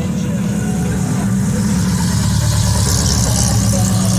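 Car engine idling steadily with a fast, even low pulse.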